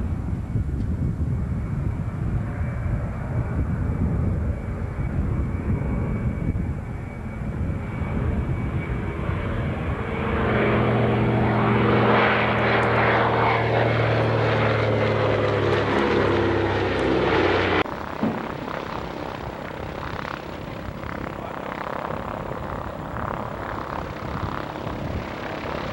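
Piston aircraft engines, the twin radials of a PBY-5A Canso water bomber: a rumbling engine noise that swells into a loud, steady propeller drone whose pitch sags slightly as the plane passes. The drone cuts off abruptly about two-thirds through, and rougher engine noise continues.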